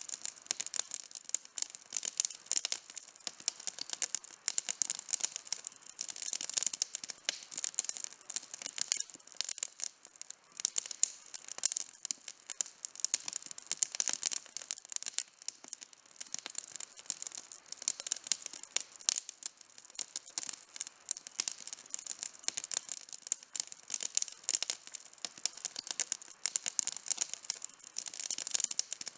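Outdoor campfire crackling steadily, with a dense, irregular run of small pops and snaps from the burning wood.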